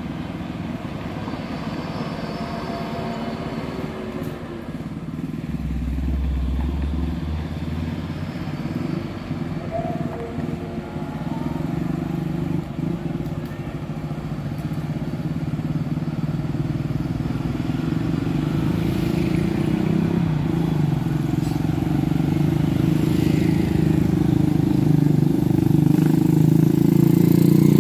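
Heavy tronton truck's diesel engine running at low revs, growing steadily louder toward the end.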